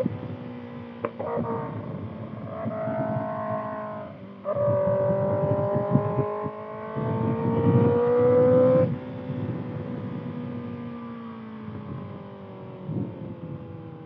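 2025 Kawasaki ZX-6R inline-four through a Voodoo Racing slip-on exhaust, ridden hard: the revs climb, break off briefly about four seconds in, climb again louder until about nine seconds in, then sink away steadily as the throttle closes.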